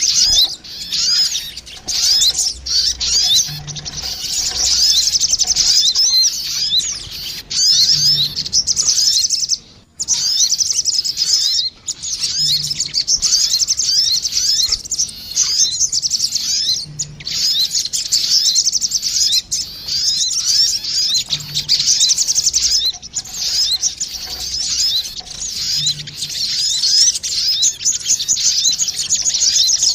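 Lure recording of sogon birds, a female and a male calling back and forth: rapid, high twittering trills, almost unbroken, with short breaks about a third and halfway through.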